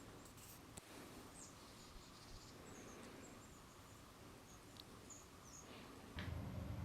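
Faint short high chirps of small birds calling, scattered over a quiet outdoor background hiss. Near the end a louder low rumbling noise starts.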